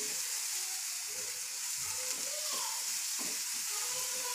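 Chilli masala with freshly added curry leaves sizzling steadily in a hot pan, stirred now and then with a spoon.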